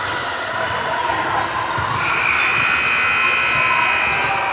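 Basketball being dribbled on a gym floor, low thumps over hall chatter, with a steady high-pitched tone joining about halfway through and holding for over two seconds.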